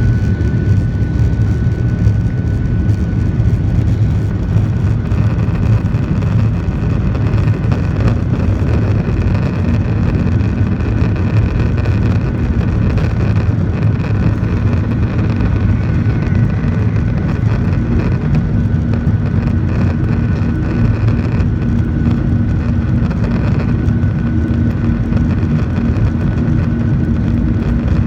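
Boeing 737-900's CFM56-7B turbofan engines running at takeoff thrust, heard from inside the cabin: a steady, loud, deep rumble with a faint high whine over it.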